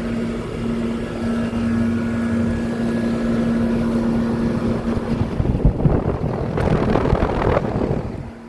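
Outdoor air conditioner condensing units running: a steady compressor hum under the whoosh of the condenser fans. The rush of air grows louder in the second half, then drops off sharply near the end.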